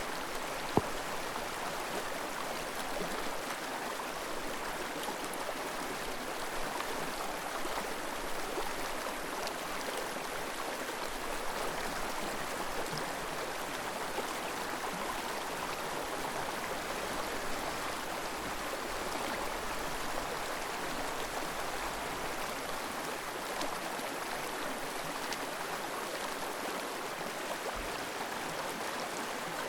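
Steady rush of a flowing forest stream, with a single sharp click about a second in.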